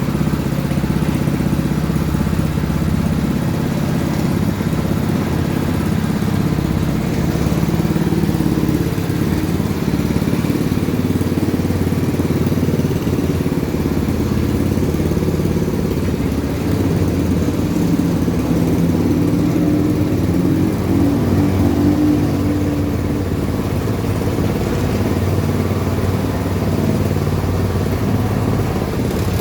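Small 5.5 hp petrol engine running steadily, turning the mesh drum of a rotary washing machine, with a slight shift in its pitch partway through.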